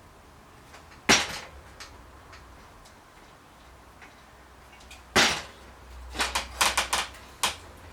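Bicycle parts being handled on a workbench: two sharp metallic knocks, then a quick run of clicks and taps.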